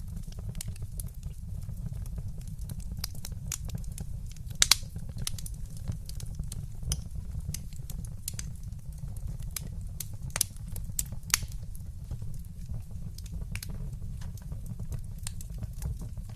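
Fireplace fire crackling, with a steady low rumble of the flames under many small snaps and ticks. A few louder pops stand out: the loudest comes about four and a half seconds in, and two more come around ten to eleven seconds in.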